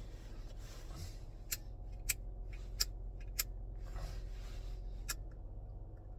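A cigarette lighter being struck several times, five sharp clicks spread over about four seconds, over a steady low hum.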